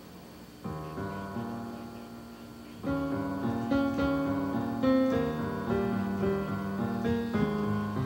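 Piano-keyboard introduction to a gentle song. A held chord comes in just under a second in, and the accompaniment fills out with moving bass and melody notes at about three seconds.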